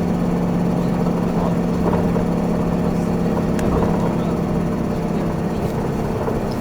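Isuzu Erga city bus heard from inside, its four-cylinder diesel running with a steady hum. About five and a half seconds in, the pitch steps down and it gets slightly quieter.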